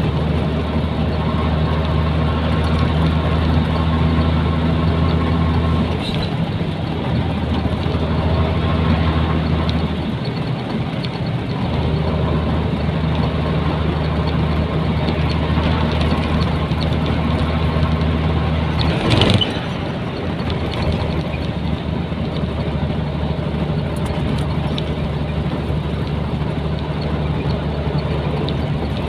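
Nissan Diesel container truck's diesel engine running under way, heard inside the cab with road noise. Its low steady note drops away about six seconds in and comes back about twelve seconds in, and there is one short loud noise about nineteen seconds in.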